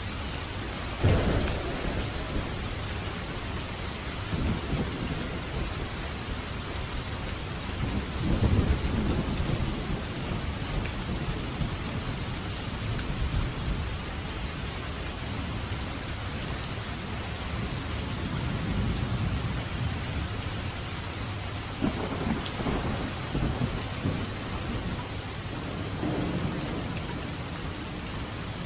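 Steady heavy rain falling on a roof, with thunder rumbling again and again over it: a sharp loud clap about a second in, another strong roll about eight seconds in, and several fainter rumbles later.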